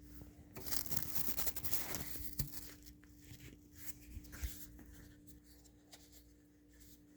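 Rustling, scraping and light clicks of plastic vacuum parts being handled, with the vacuum motor off. The rustling is heaviest for a couple of seconds early on, with one sharp click in the middle of it, and a few quieter clicks follow.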